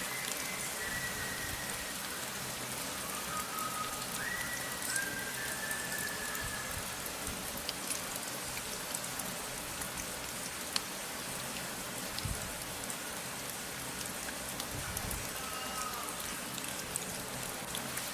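Steady rain, an even hiss with scattered sharp drop ticks. A few faint, short held tones sound over it in the first few seconds and again near the end.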